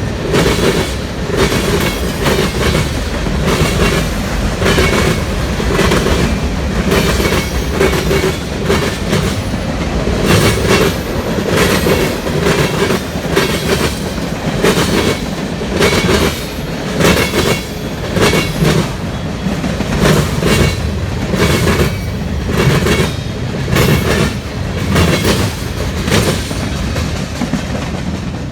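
CSX freight train rolling past close by, its steel wheels clacking repeatedly over rail joints above a steady rumble.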